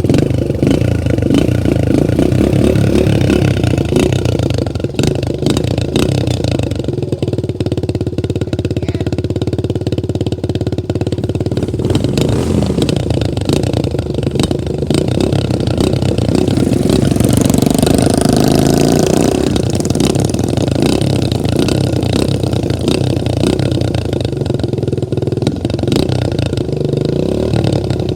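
125 cc dirt bike engine running under throttle, its pitch rising and falling with the revs; loudest a little past the middle.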